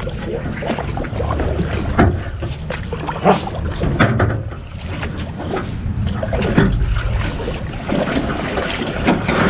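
Small rowboat being worked up against the pond bank: irregular knocks and scrapes of the hull and paddle, over a steady low rumble of wind on the microphone.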